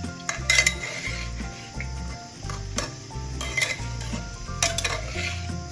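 A metal spoon stirring chicken and vegetables frying in a pressure cooker pot, clinking sharply against the pot a few times over a steady sizzle.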